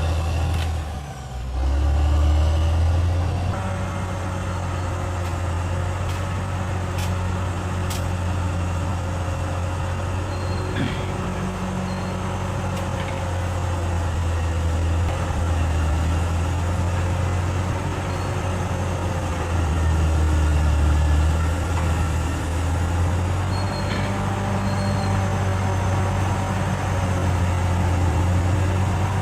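Bulldozer's diesel engine running steadily at work, a deep hum with a brief dip about a second in and a few faint clicks.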